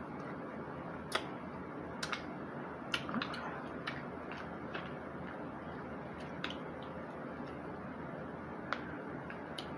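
Close-up eating sounds of a seafood meal, most likely mussels: scattered sharp clicks and wet smacks, roughly one a second, over a steady low hiss.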